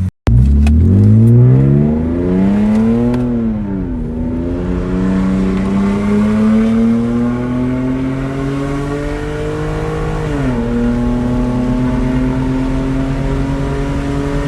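BMW E36 engine being revved after a brief cut: it climbs for about three seconds and drops back, then rises slowly and holds a higher speed until it eases down about ten seconds in, running steadily after that. The engine is running on a freshly redone intake (new MAF sensor, cleaned idle control valve and throttle body) and sounds healthy.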